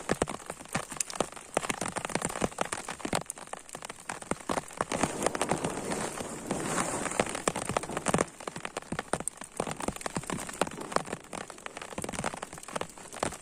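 Rain falling steadily, with many individual drops ticking sharply on a surface close by.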